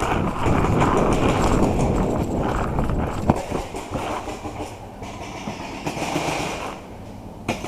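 A paintball player running with gear rattling and jostling against the body-worn microphone: a dense clatter that is loudest over the first few seconds and then eases. A sharp snap comes near the end.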